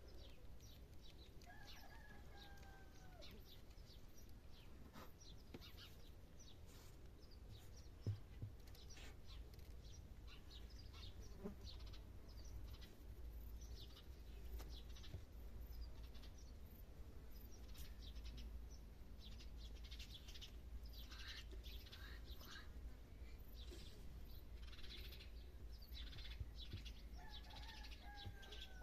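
Faint scattered clicks and rustles over a low hum, with a short falling bird-like call about two seconds in and again near the end.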